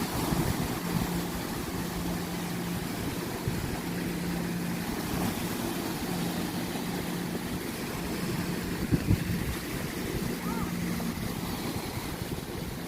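Wind and sea-water noise at the shore or on the water, with a low engine-like hum that comes and goes underneath. A couple of short knocks about nine seconds in.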